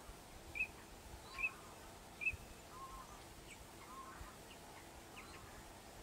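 Bird calls: three short, clear high notes a little under a second apart in the first half, with fainter chirps and quick sweeps scattered around them over a low background hiss.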